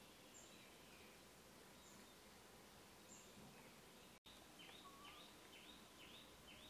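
Faint outdoor ambience with scattered short bird chirps. After a brief dropout a little past the middle, a run of short repeated chirping calls comes about two a second.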